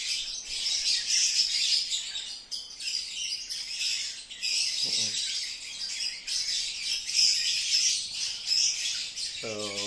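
Many small birds chirping continuously, a dense chorus of high twitters.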